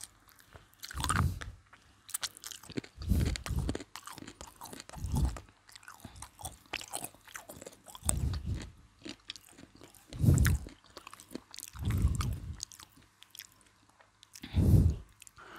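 Close-up mouth sounds of eating crispy fried chicken eaten cold (McDonald's): crunchy bites and chewing that come in loud bursts every two seconds or so, with crackling from the breaded crust in between.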